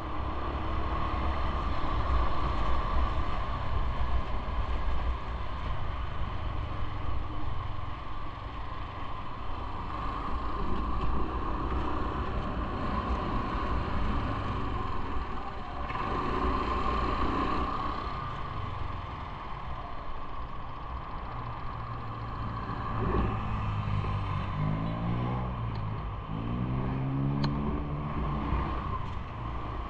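Continuous road traffic and riding noise, a steady rumble and hiss. An engine speeds up twice near the end, its pitch rising each time.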